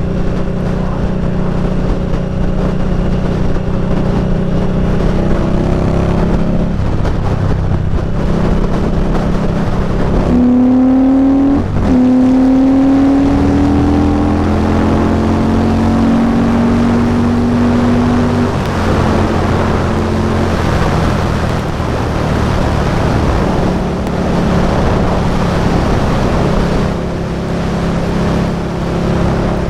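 Indian Scout Bobber's V-twin engine running under way. About ten seconds in, the sound breaks briefly as it shifts gear, then the engine pitch rises steadily as the bike accelerates. For several seconds after that, a rush of wind and road noise covers the engine.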